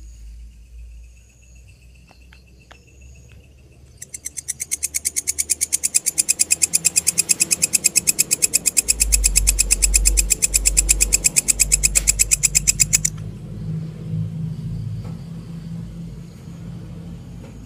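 A grasshopper stridulating at night: a loud, rapid, evenly pulsed high-pitched trill that starts about four seconds in and cuts off suddenly about nine seconds later. Before it there are faint thin chirps of other insects, and a low rumble runs underneath.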